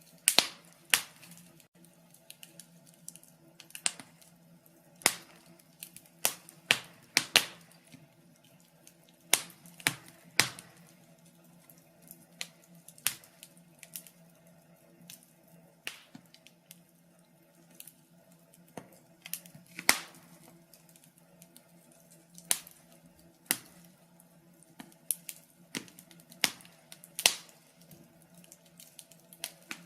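Wood fire crackling in a fireplace: irregular sharp pops and snaps, sometimes several close together, with quieter crackles between.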